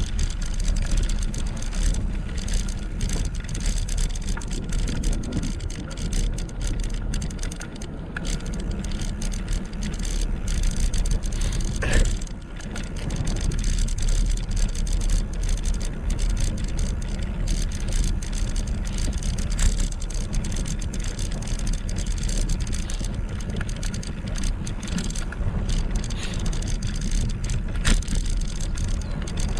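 Wind rushing over a GoPro's microphone with tyre noise from a moving e-bike, as a steady rumble, broken by a few sharp knocks, the loudest about twelve seconds in.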